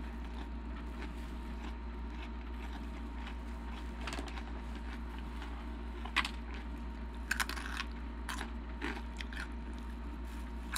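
Close-up chewing and crunching of Takis rolled tortilla chips and a cream-cheese-stuffed jalapeño, with sharp crunches about four, six and seven and a half seconds in, over a steady low hum.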